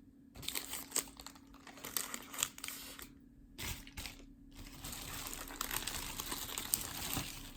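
Packaging being handled: crinkling and rustling with scattered small clicks, settling into a denser, steadier rustle in the second half.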